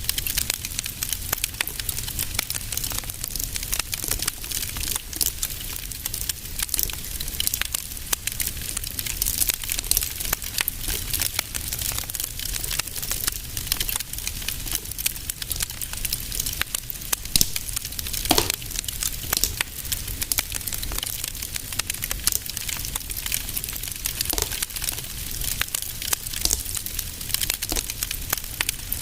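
Wood fire in a fireplace crackling with a dense run of small pops over a low steady rumble, with a sharper pop about 18 seconds in.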